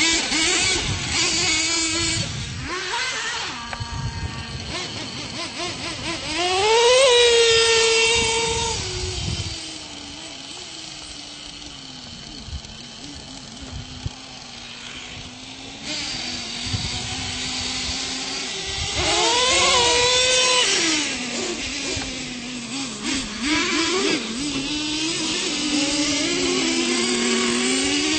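Radio-controlled monster truck motors running and revving, their pitch rising and falling as they speed up and ease off. The loudest surges come about 7 and 20 seconds in.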